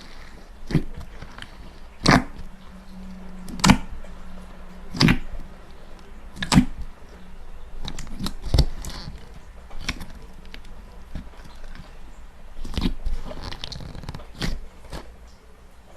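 Slime being squeezed and pressed by hand, giving sharp wet pops and clicks every second or two over softer squishing and crackling.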